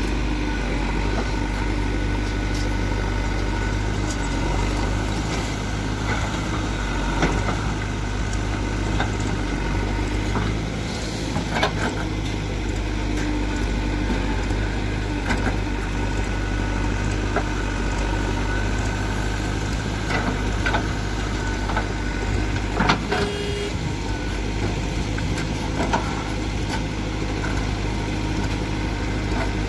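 JCB 3DX backhoe loader's diesel engine running steadily under work, with a few short sharp knocks scattered through it.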